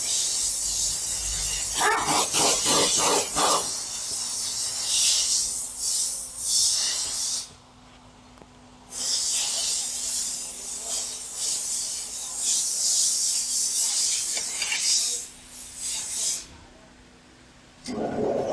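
A spraying hiss in two long stretches of about seven seconds each, with a short break between them, and a brief rattle about two seconds in.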